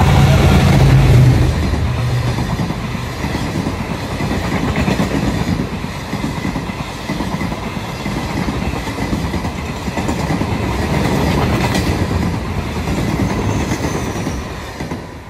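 A GE diesel-electric locomotive's engine hums loudly as it passes for about the first second and a half. Then a long rake of passenger coaches rolls by, wheels clattering steadily on the rails.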